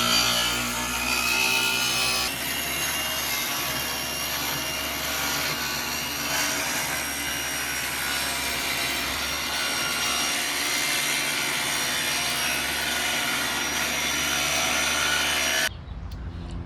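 Black & Decker benchtop table saw running with a steady whine while its blade cuts through a wooden board, with dense sawing noise. It cuts off abruptly near the end.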